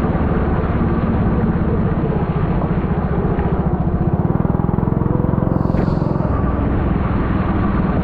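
Four-stroke Honda kart engine running steadily with a fast, even pulsing beat, picked up by a helmet-mounted camera.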